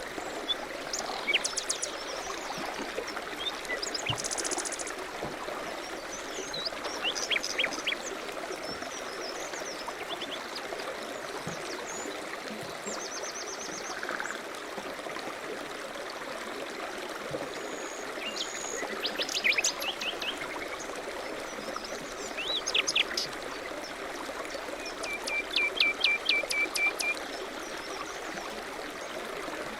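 Small birds singing in short, high chirping phrases every few seconds over the steady rush of flowing river water.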